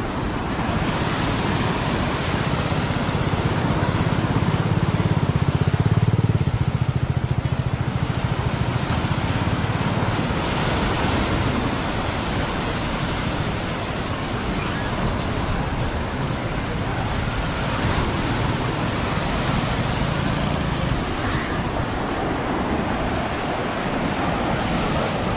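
Surf washing on the beach with steady wind noise, and a low rumble that swells a few seconds in and again later on.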